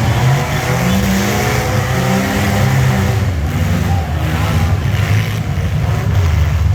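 Several racing mini trucks, vans and SUVs running under green-flag racing, their engines revving together with pitches rising and falling as they accelerate and lift.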